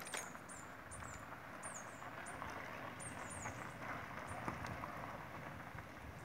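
Small birds chirping: about ten short, very high notes in the first three and a half seconds, some sliding down in pitch, over a faint steady background noise.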